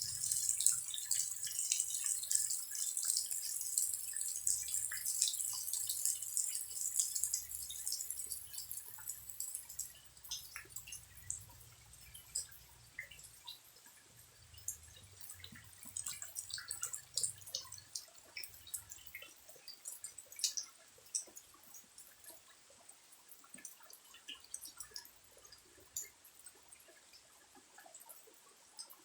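Rain falling, thinning after about ten seconds into scattered separate drips.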